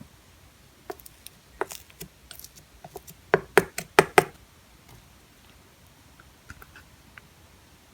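Clay-mixed slime being pressed and poked by hand, making scattered sticky clicks and pops, with a quick run of about five loud pops a little past three seconds in.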